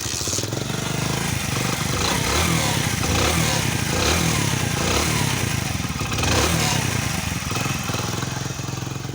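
Hero Splendor Plus motorcycle's small single-cylinder four-stroke engine running, its throttle blipped several times in the middle. It is run to show a tappet noise, which the owner later suspects comes from the timing chain rather than the valves.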